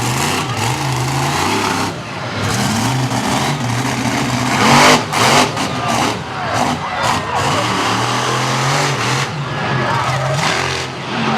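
Monster truck engine revving up and down repeatedly during a freestyle run, with a loud, harsh burst about five seconds in.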